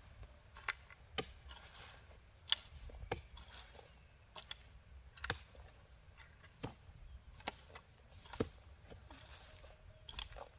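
A series of about ten sharp knocks or chopping strikes, irregularly spaced roughly a second apart.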